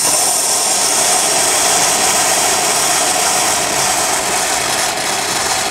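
Polyurethane spray foam gun discharging from a nearly empty can: a loud, steady hiss that starts and stops abruptly.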